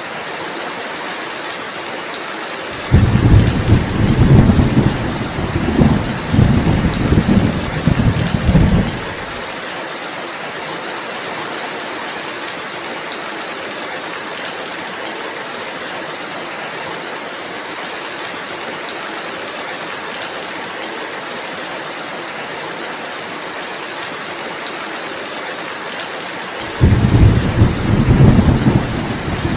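Steady rainfall with two low rolls of thunder: one begins suddenly a few seconds in and rumbles for about six seconds, and another starts near the end.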